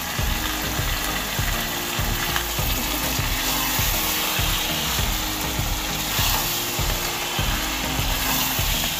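Potato curry sizzling in a pan as it is stirred with a spatula, the strokes coming irregularly several times a second over a continuous hiss.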